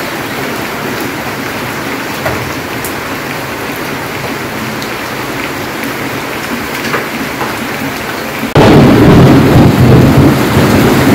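Steady rain falling. About eight and a half seconds in it cuts suddenly to much louder, heavier rain pouring off the edge of a corrugated tin roof.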